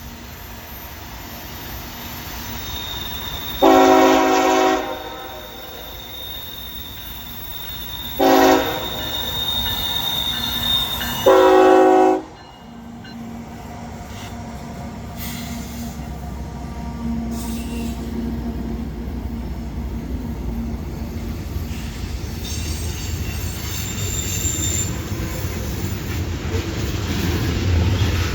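CSX diesel freight locomotive sounding its horn in three blasts, long, short, long, while a thin high wheel squeal rings. Then the diesel engines' rumble grows steadily louder as the train draws near on the grade.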